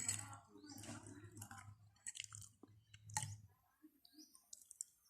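A person chewing a mouthful of rice-vermicelli noodles and stewed beef, with irregular short mouth clicks, until it stops about three and a half seconds in.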